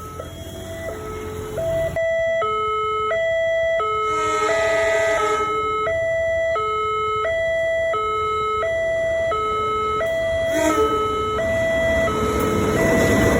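Electronic railway level-crossing alarm sounding its repeating two-note warning tone, switching between pitches about every half second. A rising rumble of an approaching train builds up under it near the end.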